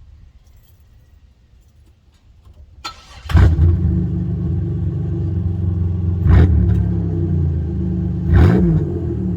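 Chevrolet Monte Carlo engine started with its mufflers removed: a brief crank about three seconds in, then it catches and idles steadily through the straight pipes, with two short revs near the middle and near the end.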